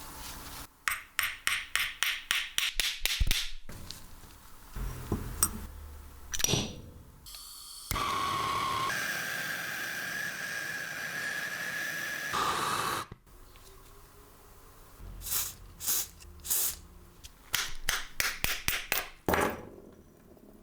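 Tool work on metal parts: a quick run of sharp metallic clicks and taps, a few knocks, and a steady whine for about four seconds in the middle that steps up in pitch once, followed by more taps.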